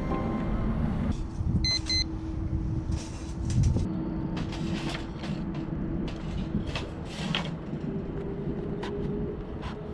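Motorcycle engine running under way with a low wind rumble, its note steady and then rising near the end as it speeds up. Two short beeps sound about two seconds in.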